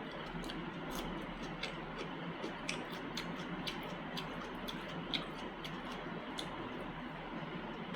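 Close-miked chewing: irregular wet mouth clicks and smacks, a few a second, over a steady background hiss.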